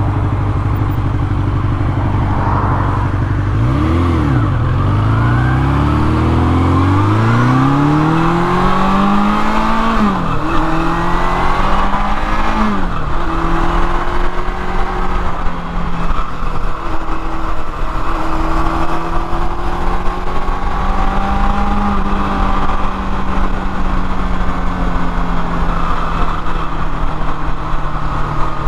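1979 Kawasaki KZ650SR's four-cylinder engine running low for a few seconds, then revving up through the gears, with shifts about ten and thirteen seconds in, before settling to a steady cruise.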